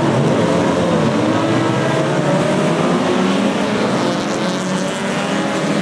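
A grid of saloon and sports racing cars accelerating away at the race start, many engines revving together with overlapping rising and falling notes.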